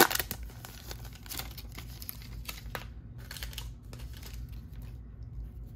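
Trading-card pack wrapper and cards being handled: a string of short crinkles and flicks, busiest over the first three seconds, then sparser and fainter.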